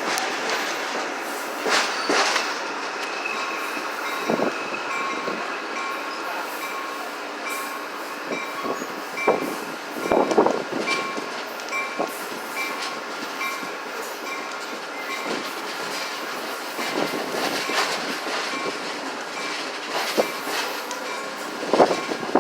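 Grapevine excursion train rolling past, its wheels rumbling steadily with scattered clanks over the rail joints. A high tone repeats about every half second through much of the pass.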